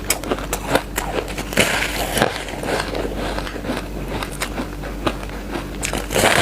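Shaved ice being bitten and chewed close to the microphone: repeated crunches with many sharp crackles.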